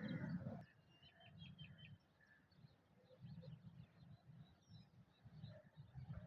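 Faint, quiet outdoor ambience with small birds chirping: a quick run of short high chirps about a second in, then scattered calls. A louder low rumbling noise cuts off suddenly about half a second in, and faint low rumbles come and go.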